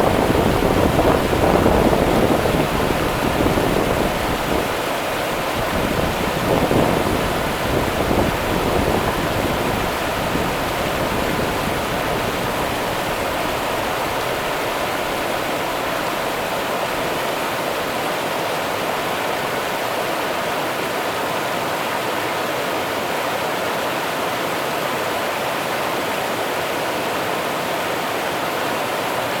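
Rio Grande river water running over its bed, a steady rushing. A low rumble sits under it at first and dies away within the first several seconds.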